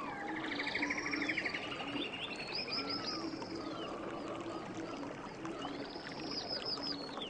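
Several songbirds singing over steadily flowing river water: a fast trill near the start, then clusters of short arched whistled notes twice, with a low note repeating underneath.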